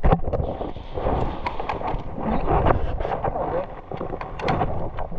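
Irregular footsteps and rustling of a player moving on foot, a sharp knock every half second or so over a constant low rumble.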